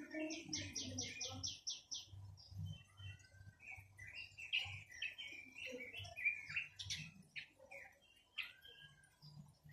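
A quế lâm songbird singing. It opens with a quick run of about eight repeated high notes, then moves into a varied string of chirps and curving, slurred whistles, with a short pause near the end.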